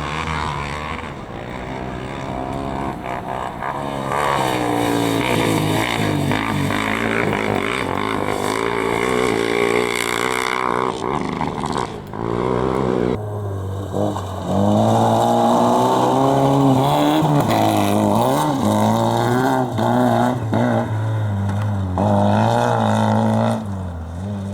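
Competition car engine run hard on a dirt slalom course, revving up and dropping back through gear changes. About 13 seconds in the sound changes abruptly to another engine running at high revs with a steadier pitch.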